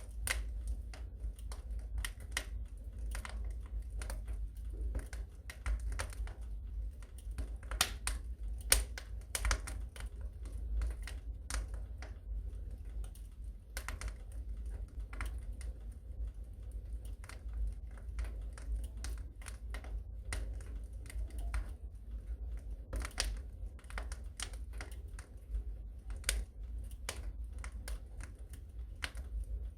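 Fire crackling in a fireplace: irregular sharp snaps and pops over a low steady rumble.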